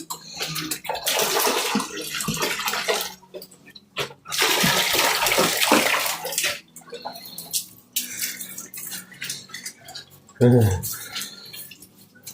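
Water pouring and splashing out in two long bursts of a few seconds each, followed by lighter scattered splashing.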